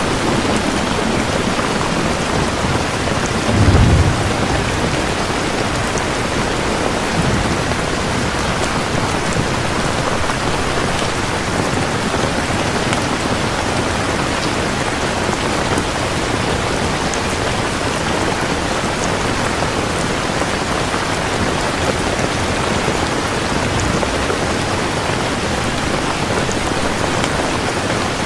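Steady heavy rain falling, with a short low rumble of thunder about four seconds in and a fainter one a few seconds later.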